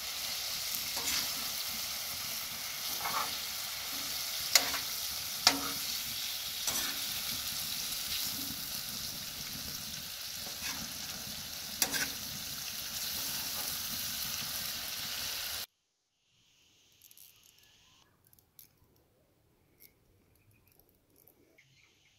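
Food sizzling as it fries in a pan, with a cooking utensil stirring and now and then knocking sharply against the pan. The frying stops abruptly about sixteen seconds in, leaving near silence with a few faint ticks.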